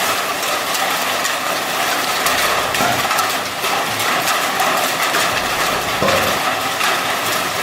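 Large hail, up to baseball size, pelting a vehicle, heard from inside the cabin: a dense steady hiss scattered with many sharp knocks, over the vehicle's running noise.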